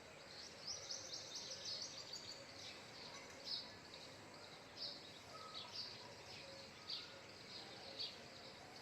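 Faint high-pitched chirps of small birds: a quick run of chirps about a second in, then single chirps roughly once a second.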